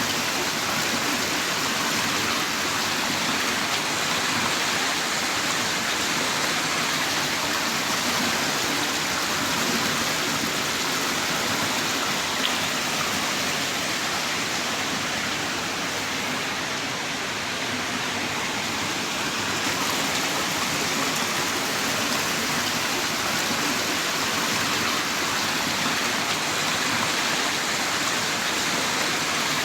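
Heavy rain downpour, a dense steady hiss of rainfall with no distinct drops standing out, easing slightly for a few seconds about midway.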